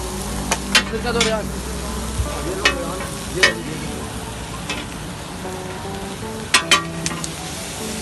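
Chicken and patties sizzling on a large flat griddle (tawa), a steady frying hiss. A metal spatula clicks and scrapes against the griddle at irregular moments, with two sharp clacks in quick succession near the end.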